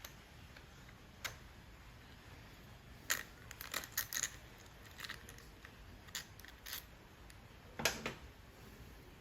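Scattered light clicks and clinks of small tools and parts being handled on a workbench. There is a quick cluster three to four seconds in and the sharpest knock near the end.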